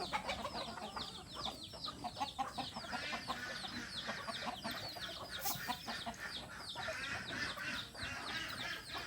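Backyard chickens calling: a continuous stream of short, high, falling peeps, many overlapping, from a brood of chicks.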